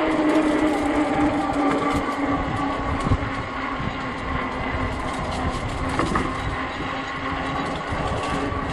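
Wind buffeting the microphone of a moving fat-tire e-bike, over a steady hum from the bike's motor and fat tyres that drifts slightly lower in pitch.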